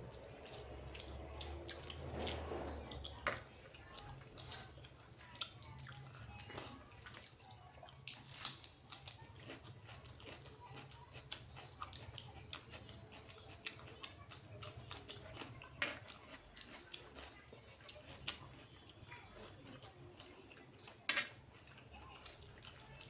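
Close-miked eating sounds of a person chewing a meal of mutton curry, rice and pakoras. Wet mouth clicks and smacks are scattered irregularly throughout, with a fuller, louder stretch of chewing about two seconds in and a sharp loud click near the end.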